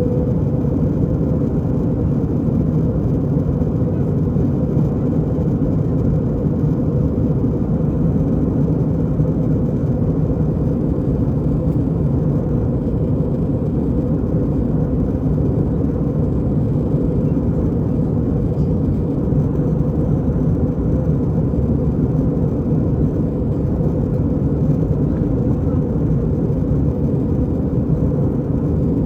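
Airbus A320 cabin noise: a steady low rumble and hum from the engines and airframe, with no breaks or sudden sounds.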